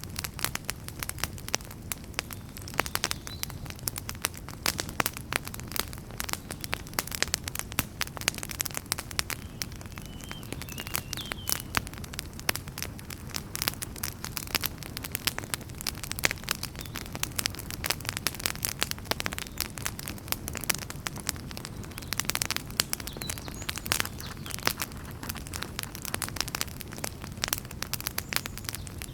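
Wood fire burning in a fireplace: logs crackling with dense, irregular pops and snaps over a steady low rumble of the flames.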